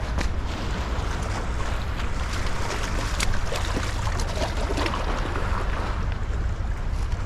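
Wind buffeting the microphone in a steady low rumble, over an even rushing hiss, with a few faint ticks.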